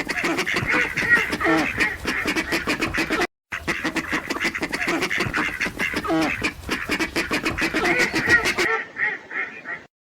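A group of ducks quacking rapidly and continuously, a dense run of overlapping calls. The sound cuts out abruptly for a moment about a third of the way in, grows quieter near the end and stops just before the end.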